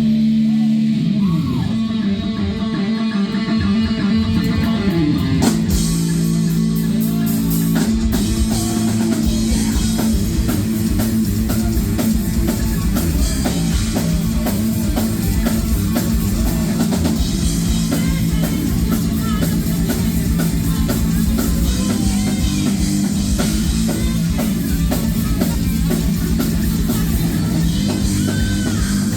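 Heavy metal band playing live: distorted electric guitar with bass and a drum kit. There is a crash about five seconds in, and the drums get busier from about eight seconds on.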